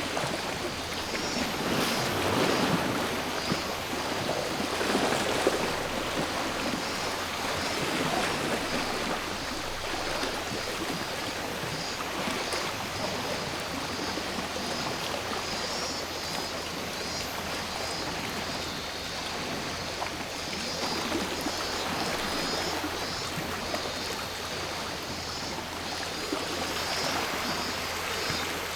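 Sea waves washing onto the shore in gentle surges every few seconds, with cicadas buzzing steadily in the background.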